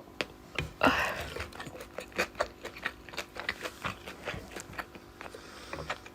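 Close-miked eating: irregular wet mouth clicks and smacks of chewing, with a short breathy rush about a second in.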